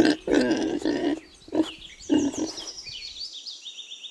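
A pig grunting, about four short grunts in the first two and a half seconds, with high chirps in the background.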